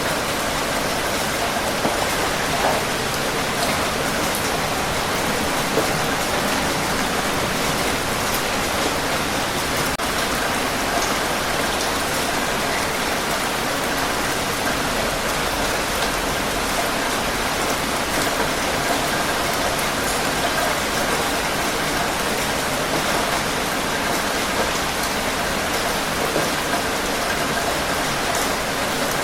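Steady heavy rain falling on a surface, an even hiss with scattered drop patter.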